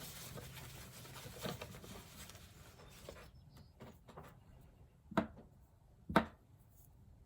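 Quiet room with a few light knocks or taps from objects being handled on a table; the two loudest come about five and six seconds in.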